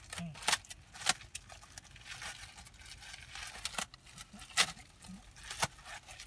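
Plastic packaging being torn open by hand, crinkling throughout with several sharp snaps and clicks.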